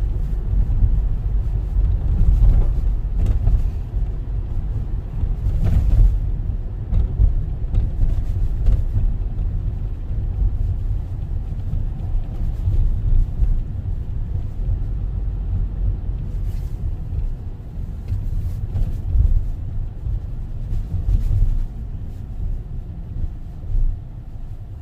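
Car driving on a city street, heard from inside the cabin: a steady low rumble of tyres and engine, with a few short knocks as the car goes over bumps and potholes. The rumble eases a little near the end.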